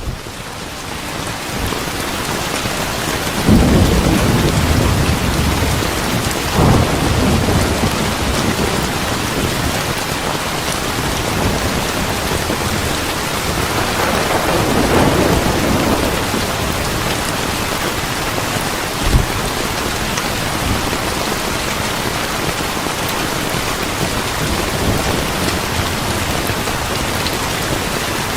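Steady rain falling, fading in over the first couple of seconds. Rolling thunder swells up about three and a half seconds in and again about halfway through. There is a single short thump a few seconds later.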